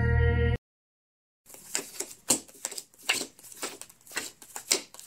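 Ambient music cuts off abruptly under a second in; after a second of silence comes a run of irregular sharp taps or clicks, roughly two a second, in a small room.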